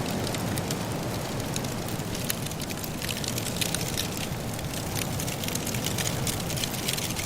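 Wood fire crackling in a fireplace: many sharp pops and snaps of burning logs, thickening from about three seconds in, over a steady low rush of soft blizzard wind.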